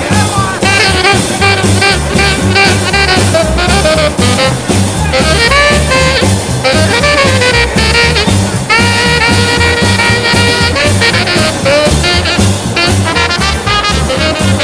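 Swing jazz band playing an instrumental break: a lead instrument carries the melody over a steady bass line and drums.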